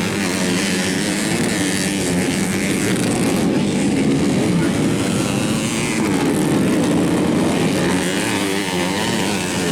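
Modified underbone racing motorcycles, several engines revving hard at once, their pitch rising and falling continuously as they race.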